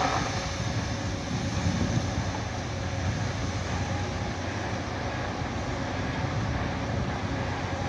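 Scania 164L 580 truck's V8 diesel engine running at a steady speed, a low even rumble with no revving.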